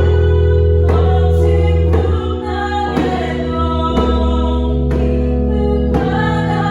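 Worship song: a singer over sustained chordal accompaniment, with a djembe striking a steady beat about once a second.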